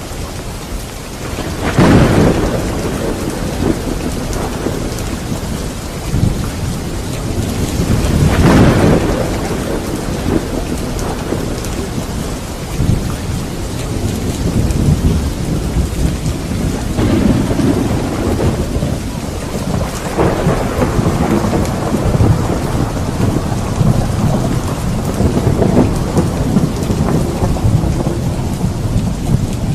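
Heavy rain falling during a thunderstorm, with two loud thunder claps about two seconds and eight seconds in and more rolling thunder rumbling through the rest.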